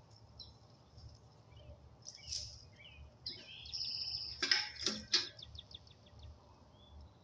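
A songbird singing a short chirping phrase in the middle, followed by a quick run of ticking notes. A few sharp knocks or scrapes come around two seconds in and again at the loudest point, just after the song, over a faint low background rumble.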